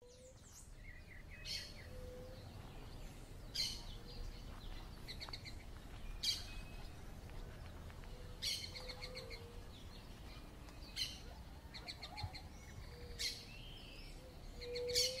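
Birds calling over and over: a sharp high call with a quick trill about every two seconds, and a soft low whistled note in between, over a faint low rumble.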